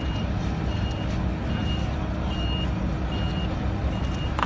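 A vehicle's reversing alarm beeping evenly, a short high beep a little more than once a second, over a steady low engine rumble.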